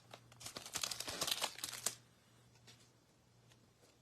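The wrapper of a baseball card pack crinkling as it is torn open and pulled off the cards, for about two seconds. After that it falls near quiet, with a few faint ticks from the cards being handled.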